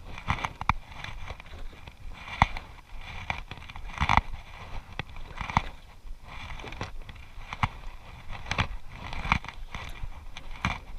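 Irregular knocks and slaps aboard a small fishing boat at sea, over a low rumble of wind and water.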